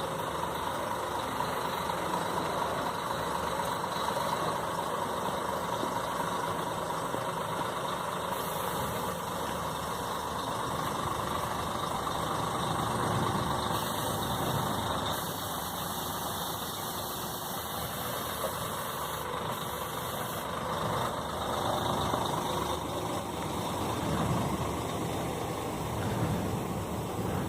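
Scania K 360 coach's diesel engine running steadily.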